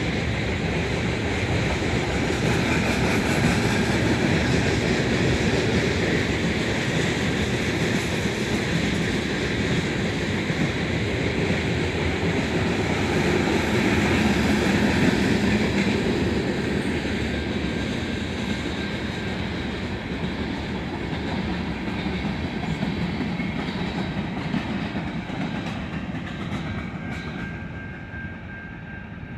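Covered hopper cars of a freight sand train rolling past on the track in a steady stream of wheel and car noise, growing fainter near the end as the last cars pass.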